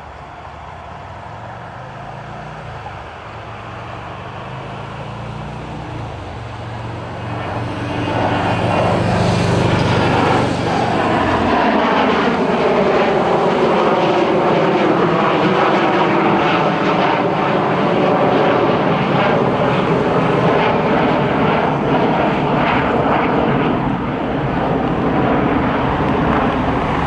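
McDonnell Douglas MD-83 jet airliner departing on its rear-mounted JT8D engines. The engine noise grows steadily louder, is loudest from about eight seconds in, and carries a falling whine as the jet passes.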